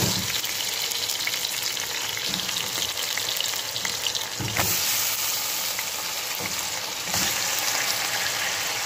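Chopped vegetables sizzling and crackling in a large aluminium pot as whole pieces of raw chicken are laid in on top of them by hand. A few soft thumps come through, the loudest at the very start and about four and a half seconds in.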